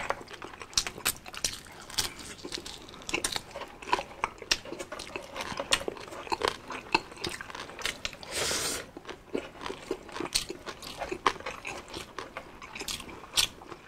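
Close-miked crunching and chewing of crispy deep-fried food (chicharon bulaklak, bagnet and fried chicken), with many sharp, irregular crunches and a short hiss a little past the middle.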